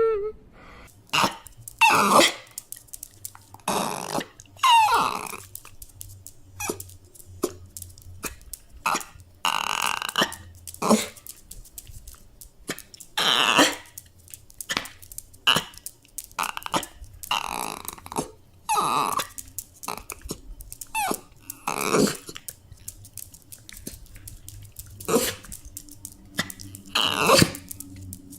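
A dog whining and grumbling in short, irregular bursts, mostly rough throaty grunts with a few pitched whimpers, one or two seconds apart.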